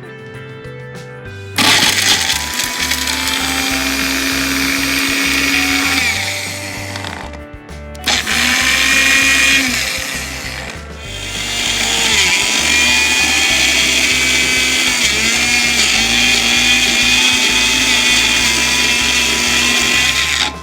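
Magic Bullet blender motor running as it blends ice cream with peanut butter cups. It starts about a second and a half in, cuts out briefly about seven and a half seconds in, dips again around eleven seconds, then runs on until just before the end.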